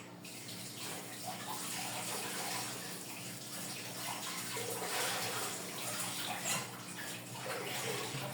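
Tap water running and splashing in a sink, uneven in strength, with a few light knocks.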